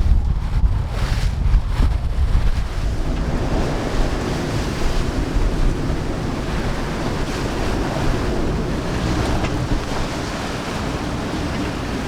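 Squall wind buffeting the microphone over the rush of waves and water along a sailboat under way; the buffeting is heaviest in the first few seconds.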